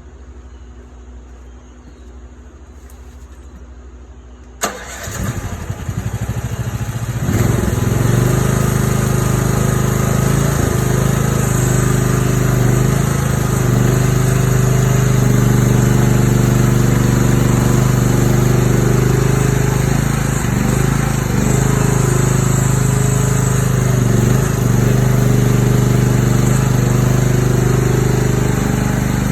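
Mini excavator's diesel engine starting about four and a half seconds in, with a sharp click and a few seconds of cranking and catching, then running loud and steady, its note dipping briefly a few times under load.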